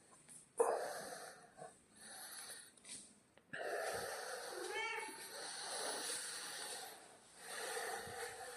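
A cat hissing in long breathy bursts: a short one about half a second in, a long one from about three and a half seconds to seven, and another near the end, with a brief pitched cry mixed in near the middle.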